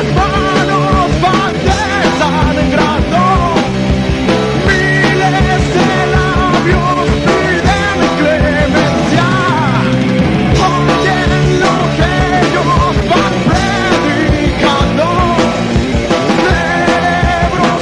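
Heavy metal band playing live and loud: a lead line bending and wavering in pitch over dense, steady drumming and low sustained bass notes.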